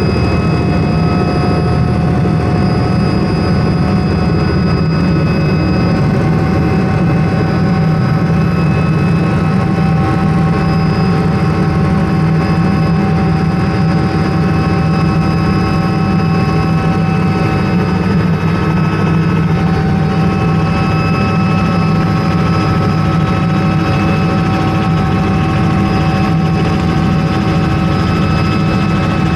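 Helicopter running, a loud steady drone of engine and rotor with a high, steady turbine whine over it.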